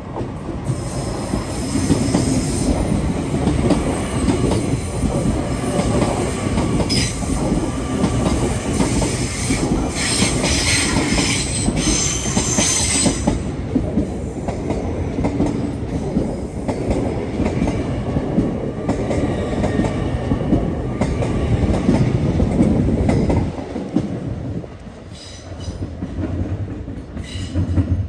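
Great Western Railway Hitachi Intercity Express Train running past close alongside the platform, a loud steady rumble of wheels on rail with a high squeal for a few seconds about ten seconds in. The noise drops away suddenly near the end as the last coach clears.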